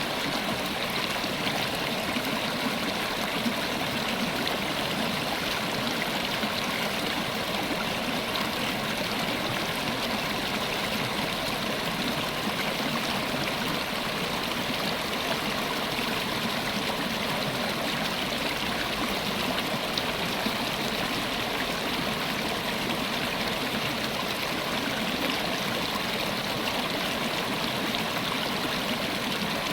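River water running steadily over stones, a continuous even rush with gurgling.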